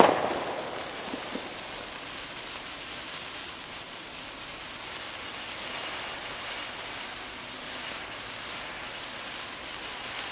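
Sparklers burning with a steady fizzing crackle, after a sharp loud burst of noise right at the start.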